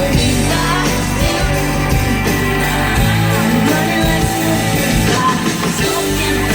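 Live pop-rock band music played loud over a concert PA, with guitar, bass and drums, and singing at times.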